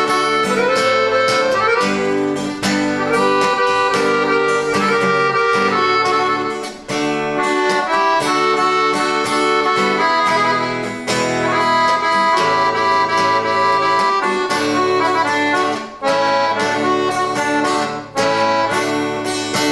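Instrumental break of a Brazilian country song: accordion playing the melody in held notes over strummed guitar.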